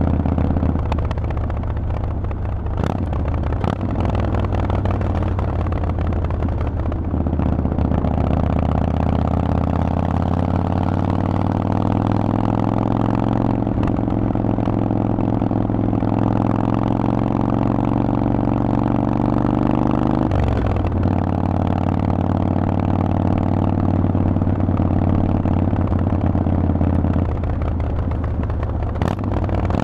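Harley-Davidson Forty-Eight's air-cooled V-twin running through a Vance & Hines aftermarket exhaust while riding. The pitch climbs slowly for about twelve seconds, drops sharply about twenty seconds in, then holds steady.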